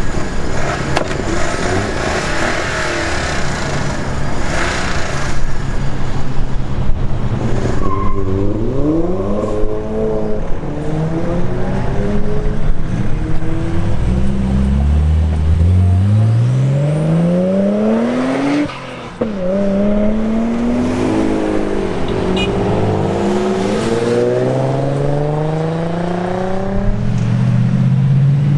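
Tuned cars accelerating hard away, engines revving up repeatedly in rising sweeps through the gears. One long climb about two-thirds of the way in cuts off suddenly before the next pull.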